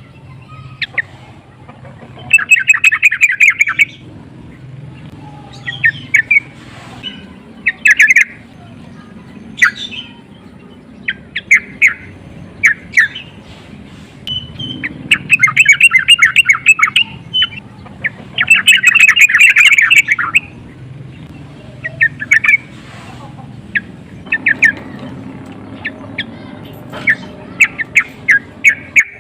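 Yellow-vented bulbul (trucukan) calling in a loud, agitated lure call: harsh, fast chattering runs of a second or two, the longest about two and a half seconds in, at about fifteen seconds and at about nineteen seconds, broken by short sharp single notes.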